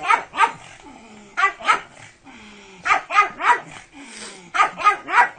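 Pug barking excitedly, about eleven short sharp barks in quick runs of two to four, with brief lower falling sounds between the runs.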